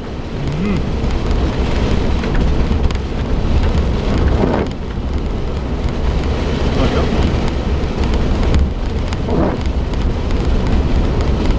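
Rain and splashing water hitting a 2004 Suzuki Jimny as it drives through a soaked, muddy lane, over a steady low rumble of engine and tyres.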